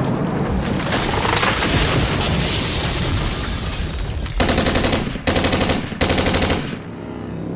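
Battle sound effects: a dense din of combat noise, then three short bursts of machine-gun fire beginning about four and a half seconds in.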